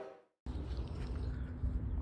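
The tail of a train horn fading out, cut off by a moment of silence. Then a faint outdoor background with an uneven low rumble, like wind on the microphone.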